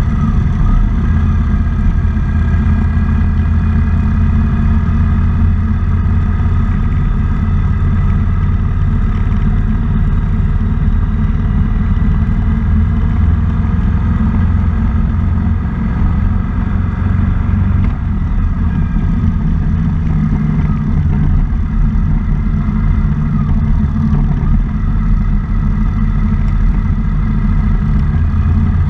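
Motorcycle engine running steadily at low cruising speed, a constant low rumble mixed with wind rush on the microphone.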